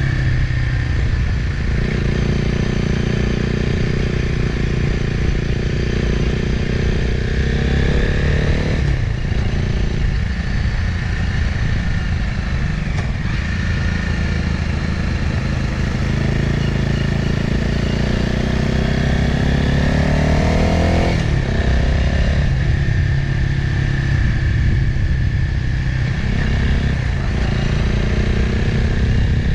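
Motorcycle engine running under way, heard from the bike itself with a steady low rumble of riding noise. The revs climb slowly and drop sharply twice, about a third and about two-thirds of the way through, as gears change on the descent.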